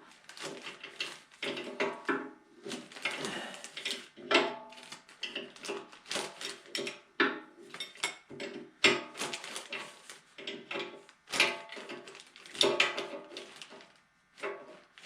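Metal tools and fittings clinking, tapping and clattering in a rapid, irregular series of short knocks, many with a brief metallic ring.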